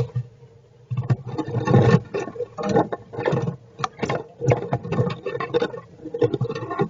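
Squirrels scratching and shifting in their nest: irregular bursts of scratching and rustling with short pauses, over a faint steady hum.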